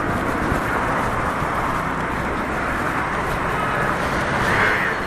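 City street traffic noise: a steady wash of passing cars, swelling a little near the end.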